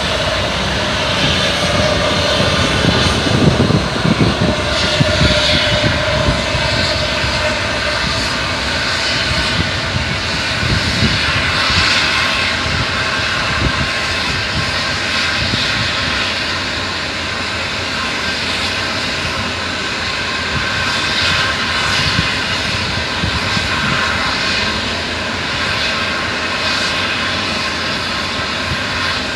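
A palm-oil truck's diesel engine running steadily and loudly while the load of oil palm fruit bunches is tipped out, with irregular low thumps, most of them in the first half.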